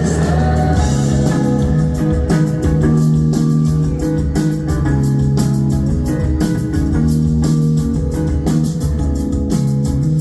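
Live rock band playing an instrumental passage: electric guitars and bass over a steady drum beat, with no vocals.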